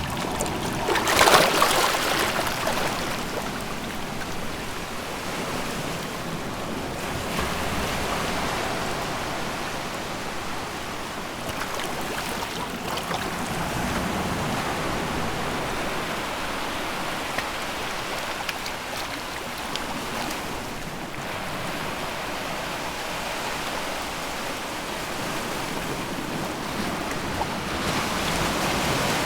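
Sea waves breaking and washing on the shore, with a loud break about a second in, a steady wash after it and another swell of surf near the end.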